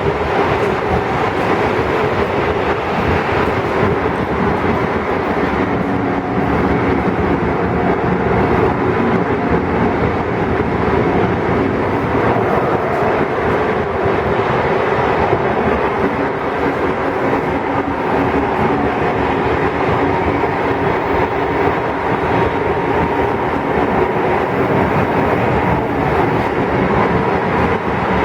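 Odakyu 3000-series electric commuter train running at speed, heard from inside a passenger car: a steady rumble of wheels on rail with a few faint steady tones over it.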